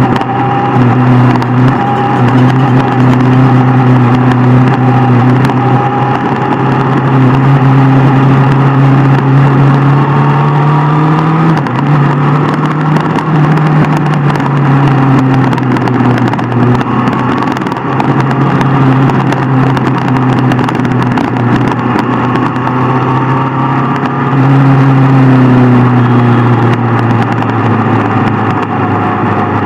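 Inline-four sport motorcycle engine running steadily at cruising revs while riding, with road and wind noise. The engine note climbs slowly and steps down in pitch once, about twelve seconds in.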